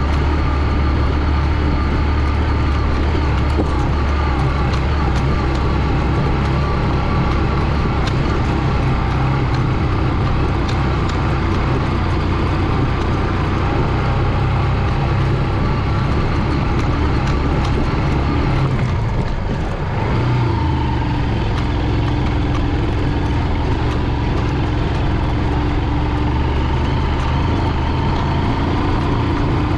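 Small motorcycle engine, a Honda CG 125 single-cylinder four-stroke, running steadily under way. It eases off briefly about two-thirds of the way through, then picks up again.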